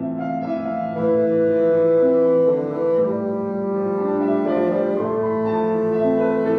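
Bassoon playing a slow, legato melody of held notes with piano accompaniment.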